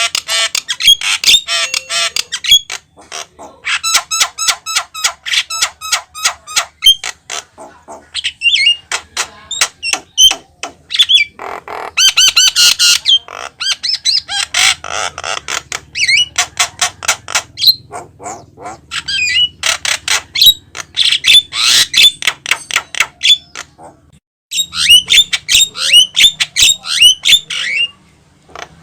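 Javan myna singing in loud, rapid runs of harsh squawks, chattering clicks and whistled notes, broken by short pauses.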